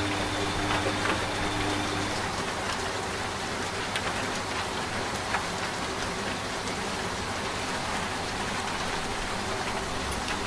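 Steady rain with scattered drop ticks, layered with a washing machine's low steady hum that cuts off about two seconds in.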